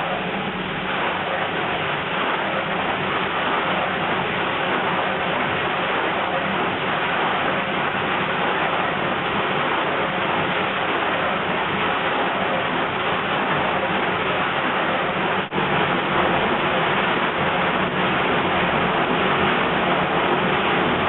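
1953 Thor Automagic washing machine running, with a steady rush of churning and splashing water in its tub over a low motor hum. There is a brief dropout about fifteen seconds in.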